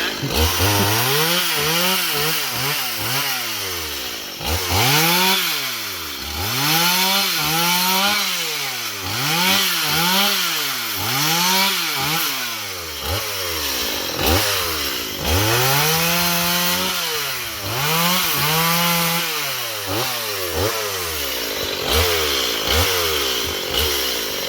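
Two-stroke chainsaw engine revved up and let back down over and over, about a dozen times, each rev rising to a high whine and falling away.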